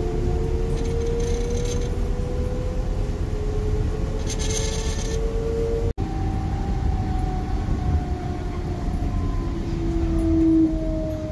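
Train running, a low rumble with the whine of its motors rising slowly. After a cut about six seconds in, a whine falls steadily as a train slows.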